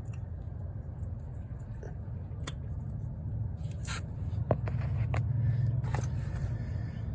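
Scattered sharp clicks and light scrapes of hand tools on metal while the electrical wire is fastened to a newly installed starter, over a low rumble that swells for a couple of seconds in the second half.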